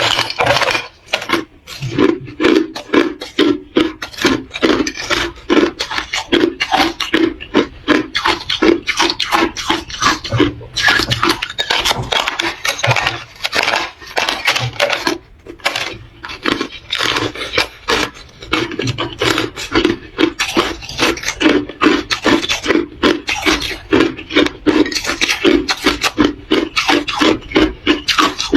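Close-miked chewing of hard ice: a rapid, steady series of crunching bites, several a second, with a few brief pauses.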